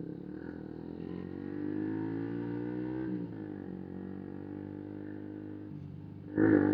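125 cc motorcycle with a full Arrow exhaust under way, engine pitch climbing as it revs, dropping about three seconds in as it shifts, then running steadily. A sudden louder sound cuts in near the end.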